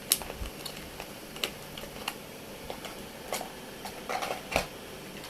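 Irregular sharp clicks and taps of small hard parts being handled, with a short cluster of several clicks about four seconds in.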